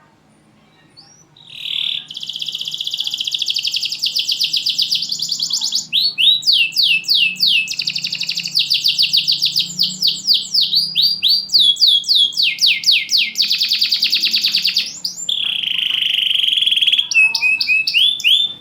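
Domestic canary singing loudly, starting about a second and a half in: one long song of fast trills and quick rising sweeps with barely any pauses between phrases, stopping just before the end.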